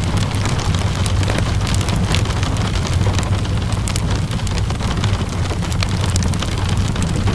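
Steady rain with a low rumble, layered with frequent sharp crackles and pops from a wood fire.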